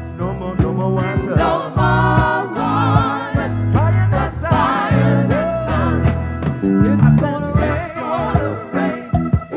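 Gospel band playing live, with drums, bass and keyboards under singing voices.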